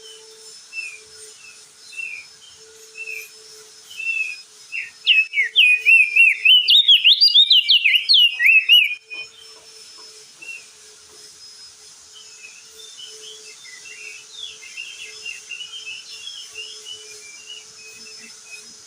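Crested white-eye (opior jambul) singing: a string of short chirps, then about five seconds in a loud, fast warbling run lasting about four seconds, then softer scattered chirps and chatter.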